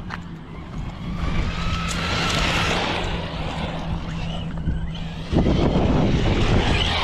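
Arrma Vorteks 223 RC stadium truck running, its Hobbywing Max10 G2 brushless motor whining over the sound of the tyres. The whine swells to a peak around two to three seconds in, and a louder rush of noise starts suddenly about five seconds in.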